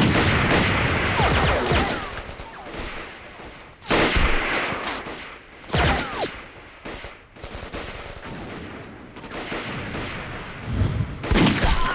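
Battle gunfire: a dense volley of rifle and machine-gun shots in the first two seconds, then further volleys about four, six and eleven and a half seconds in, with scattered lighter shots between.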